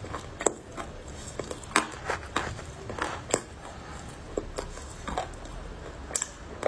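Crunchy clay cracking as it is bitten and chewed, in irregular sharp crunches several times a second, two of them louder than the rest.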